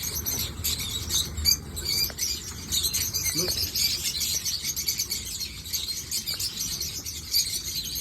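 A large flock of lovebirds chattering, a dense, continuous mass of high, shrill chirps.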